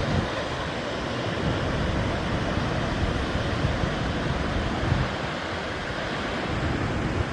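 Steady rushing noise of a large waterfall, Shoshone Falls on the Snake River, with wind gusting against the microphone.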